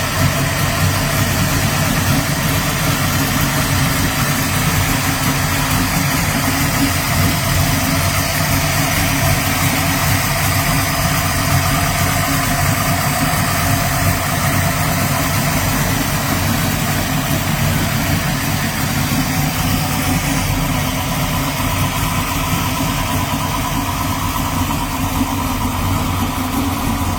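A 410 cubic-inch Windsor stroker V8 with a TFS Stage 3 camshaft, in a 1987 Mercury Cougar XR7, idling steadily.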